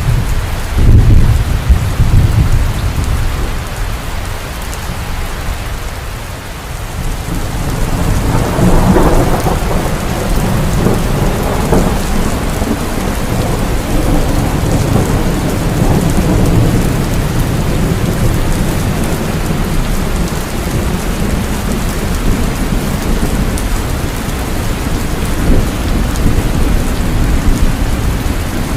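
Heavy rain falling steadily with rolling thunder: a deep rumble in the first three seconds, a dip, then a longer swell of thunder building from about eight seconds in and rumbling on under the rain.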